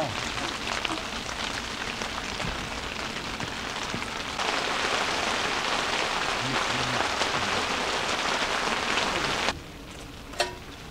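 Steady rain falling on a tent's fabric, growing louder about four seconds in. Near the end the rain drops away and a single metal clink rings out.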